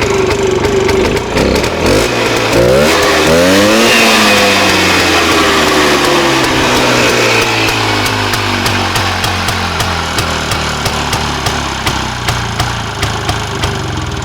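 Minsk motorcycle fitted with a Muravey scooter's two-stroke engine, running: it is revved up once about two to four seconds in, then slowly drops back to a low, uneven idle with single firing strokes audible near the end.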